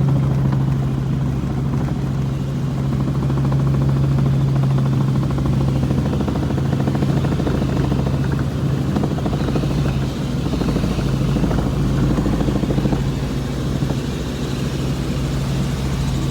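Helicopter in flight: a loud, steady, unbroken low drone from the engine and rotors.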